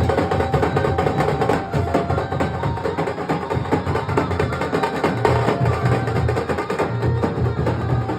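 Nasik dhol drums playing a fast, dense beat, with heavy low drum strokes and a rapid crisp rhythm over them.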